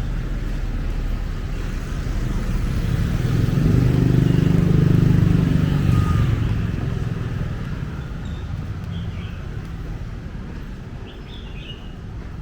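A motor vehicle passes close by in street traffic, its low engine rumble swelling to a peak about four to six seconds in and then fading away.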